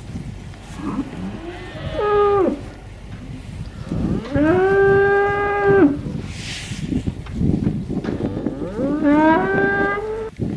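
Cattle mooing three times. The first moo is short and falls at its end, the second is long and steady, and the third rises then holds. A low rumble of background noise runs under them.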